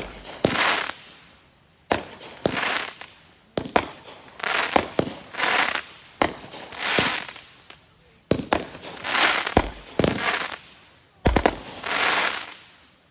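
Consumer aerial fireworks firing a quick series of shots, each a sharp launch thump followed by a hissing, crackling burst about a second long, about a dozen in all; the last one dies away shortly before the end.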